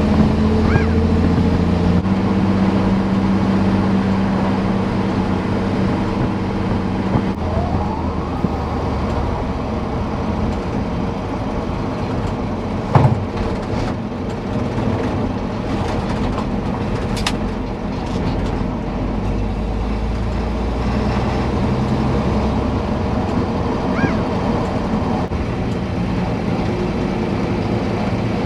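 A motor vehicle engine running steadily, its hum shifting pitch slightly a couple of times, with a sharp click about halfway through.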